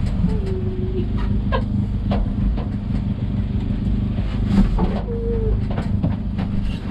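Vehicle engine running with a steady low hum, with two short squeaks and a few scattered clicks.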